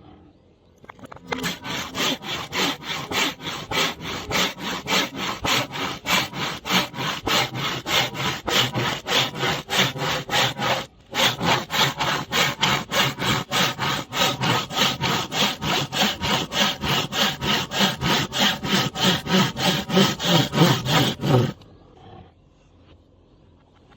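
Hand saw cutting through bamboo in quick back-and-forth strokes, about three a second. The strokes break off briefly about ten seconds in, then run on and stop shortly before the end.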